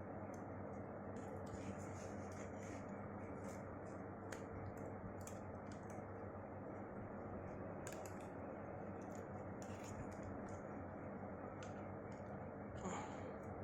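Scattered small clicks and light scrapes of hand tools on phone parts, irregular and a few per second at most, over a steady low background hum.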